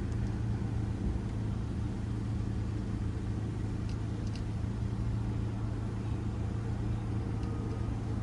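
Steady low mechanical hum, unchanging throughout, with a couple of faint clicks about four seconds in.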